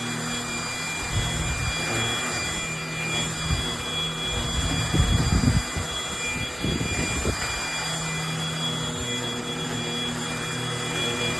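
MBYULO cordless stick vacuum running with a steady high-pitched motor whine. Low thumps and rumbles come and go over it, loudest about five seconds in.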